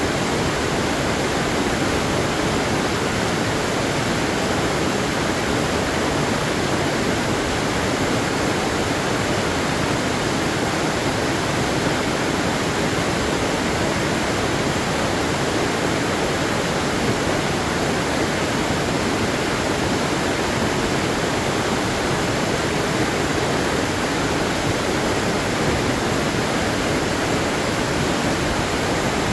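Waterfall: steady rush of falling and flowing water, even and unbroken.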